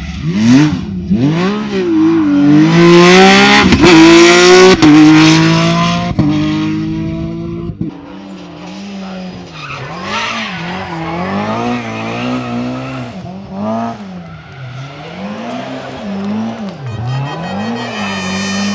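A rally car's engine revving hard, loudest in the first several seconds as its pitch climbs. It is then revved up and down repeatedly, about once a second or so.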